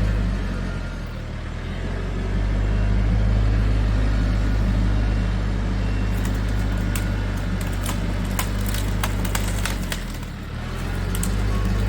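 An engine running steadily with a low hum, easing off briefly twice, once near the start and once near the end. Scattered sharp clicks and snaps come over it in the middle and near the end.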